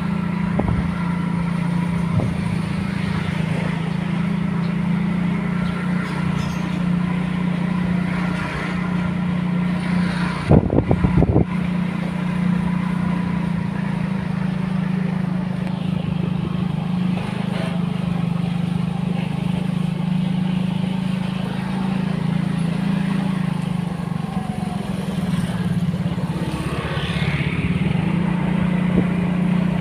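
A road vehicle's engine running steadily while driving, a constant low drone, with a short burst of loud knocks about ten seconds in.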